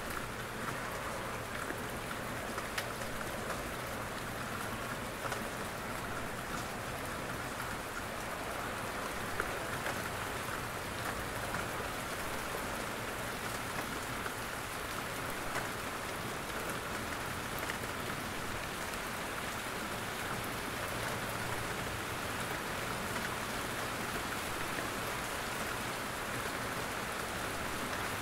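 Steady rain falling in a forest, with scattered single drops ticking out from the even hiss.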